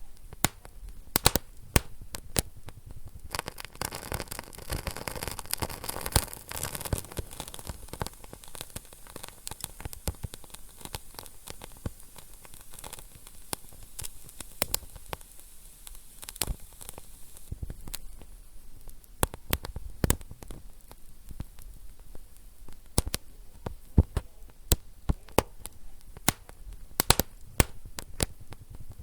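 Wood fire burning in a fireplace, crackling with frequent sharp pops at irregular intervals over a soft steady hiss.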